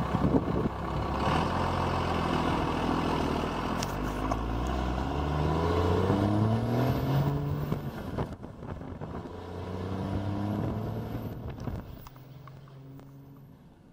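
Dodge pickup's 5.9 Cummins turbo diesel accelerating, its engine note climbing twice. Each time a high turbo whistle rises and then falls away. The engine eases off near the end.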